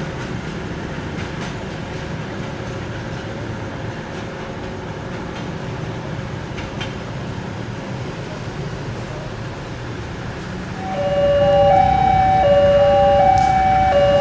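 A passenger train running past with a steady rumble and light clicks from the wheels. About eleven seconds in, a louder electronic warning tone starts, alternating between two pitches about twice a second.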